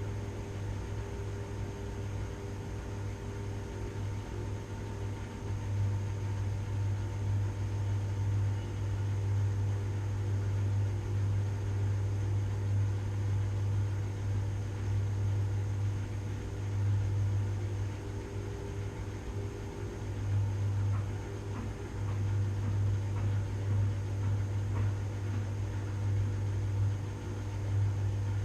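Washing machine running with a steady low hum and a few steady higher tones, its loudness swelling slightly now and then.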